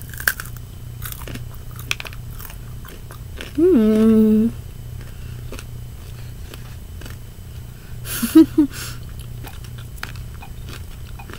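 Close-miked biting and chewing of crispy fried chicken: scattered crunches and mouth clicks. A short steady hum from a voice comes about four seconds in, and a brief loud sound a little past eight seconds.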